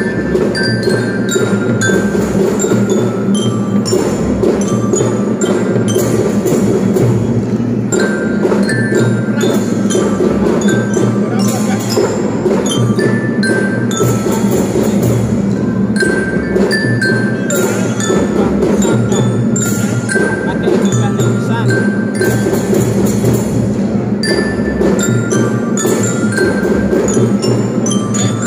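Children's drum band playing a marching tune: a bright glockenspiel-like bell-lyra melody of short notes over steady drumming.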